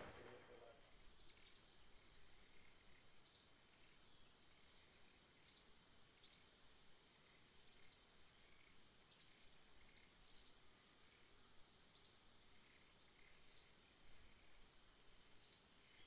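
A bird giving a short, high chirp about a dozen times, irregularly every second or two, over a faint steady high-pitched tone.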